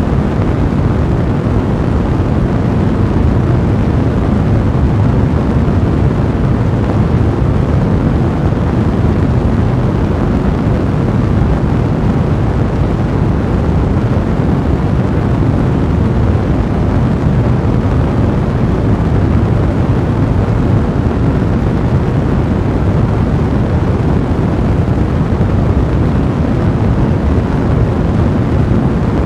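Fire blazing in a fireplace: a steady, low, even rushing noise with no breaks.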